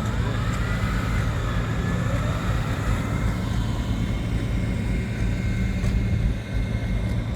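Pulling tractor's engine running steadily, with a high whine that rises over the first second and then holds.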